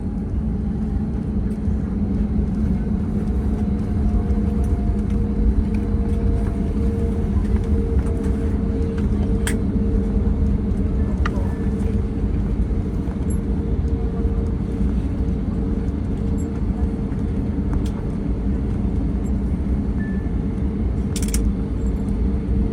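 Airbus A321neo cabin noise: a steady low rumble and engine drone with two steady hums. A faint tone falls slowly over the first several seconds, and there are a few faint clicks.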